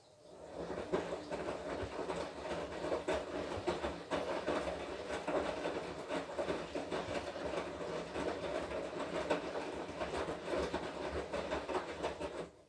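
Washing machine drum turning one way in the wash cycle, with its motor humming and the wet laundry tumbling with many small knocks. It starts up just after the beginning and stops abruptly near the end.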